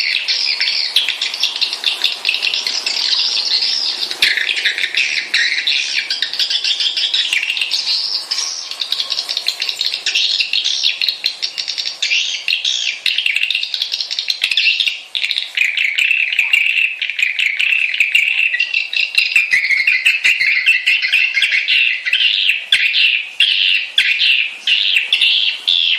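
Swiftlet lure call: a dense, continuous twittering of many swiftlets, rapid chirps and clicks that overlap without pause, settling somewhat lower in pitch about halfway through. It is the kind of recording played to draw swiftlets into a nest house to roost.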